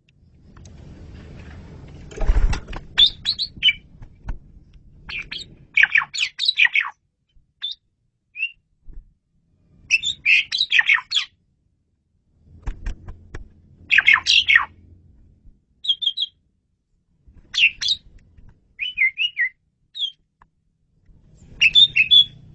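Asian pied starling (jalak suren) singing in short, lively bursts of chirps and whistles, about a dozen phrases broken by brief pauses. A faint low rumble lies under some of the phrases.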